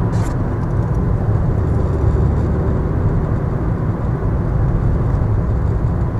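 Car driving along: a steady, even rumble of engine and road noise.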